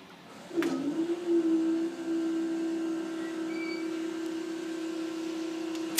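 Level crossing barrier mechanism starting with a click and then running as a steady low electric-motor hum, dipping in pitch as it starts up and then holding one even tone while the barriers rise after the train has passed.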